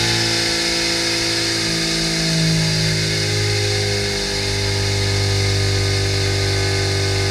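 Rotrex C15-supercharged 1293cc A-Series four-cylinder engine running steadily at about 3500 rpm on an engine dyno.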